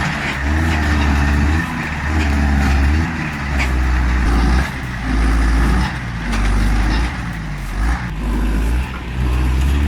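Heavy truck engine labouring under load, revving in repeated surges about once a second or so, its pitch rising and falling as the driver works the clutch to get it to catch.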